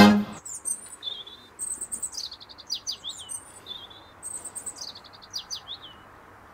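A songbird singing: a run of short high chirps and trills with quick downward-sweeping notes, stopping about a second before the end.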